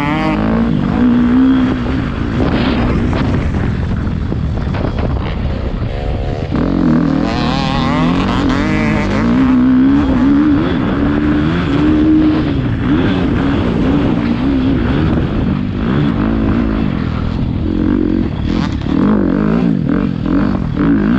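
Motocross bike engine being ridden hard, revving up and down repeatedly as the throttle opens and closes, getting louder from about six seconds in.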